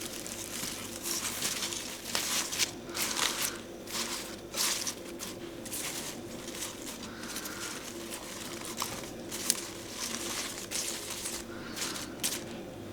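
Crinkling and rustling as something crisp is handled and crumpled, in irregular bursts, over a faint steady low hum.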